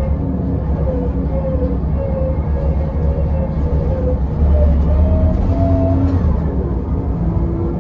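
Scania L94UB bus's diesel engine and driveline running, with a whine that climbs in pitch from about four seconds in as the bus pulls harder, then drops to a lower pitch about six and a half seconds in, like a gear change.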